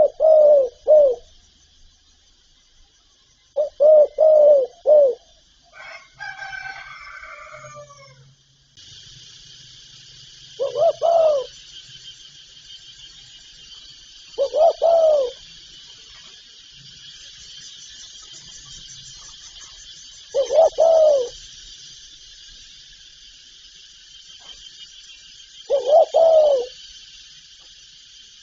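Spotted doves cooing: a three-note phrase at the start and another about four seconds in, then shorter coos every five or six seconds. A steady high hiss runs underneath and grows louder about nine seconds in, and a brief higher, wavering call sounds between about six and eight seconds.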